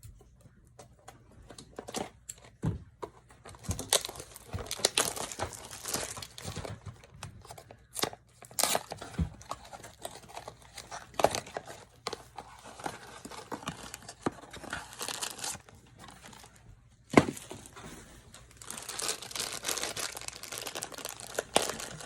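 Funko Mystery Minis blind-box packaging being torn open and crinkled: irregular rustling, tearing and sharp clicks of cardboard and wrapping, with one loud sharp crack about seventeen seconds in.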